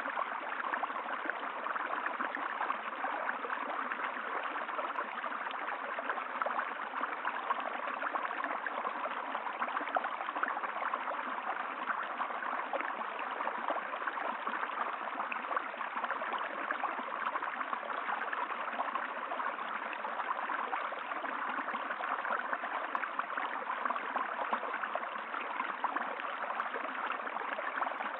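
Flowing water of a stream, a steady babbling and gurgling rush.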